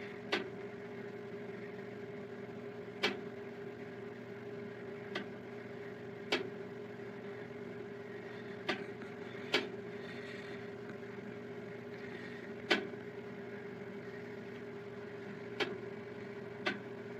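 Countertop air fryer toaster oven humming steadily, broken by about nine sharp clicks a second or several seconds apart.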